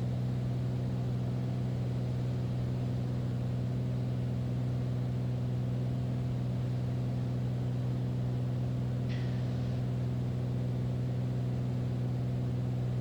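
Beechcraft Bonanza's six-cylinder piston engine and propeller droning steadily, heard inside the cabin in cruise descent as the plane slows for landing.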